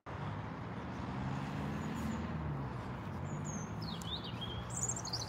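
A low, steady drone underneath, with a small bird chirping several times in the last second or so.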